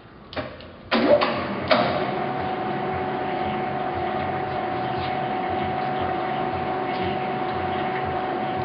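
Victor 2040 engine lathe with a 10 horsepower motor, starting up after a few light clicks: about a second in there are two sharp clunks, then the lathe runs steadily with a constant whine.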